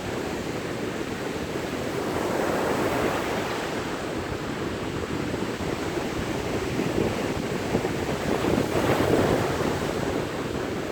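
Sea waves breaking and washing on a beach, a steady surf rush that swells twice as waves come in, with some wind on the microphone.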